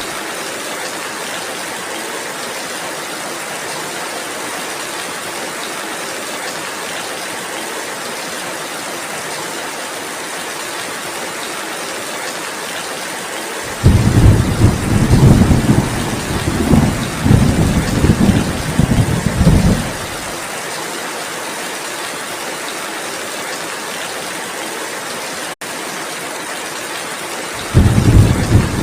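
Steady rainfall hissing, with two long, low rolls of thunder: one from about halfway to about two-thirds through, and another starting near the end. A split-second dropout in the sound comes about three-quarters through.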